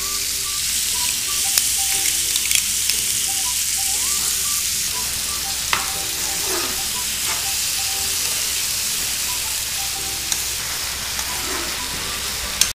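Marinated chicken frying and sizzling in oil in a kadai as a coarse green masala paste is stirred in. A steel spoon stirs and scrapes, with a few sharp clinks against the pan.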